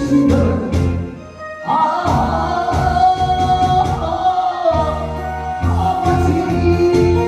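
Music: a voice singing long held, wavering notes over a keyboard accompaniment with a steady low pulse, with a short dip in the sound just over a second in.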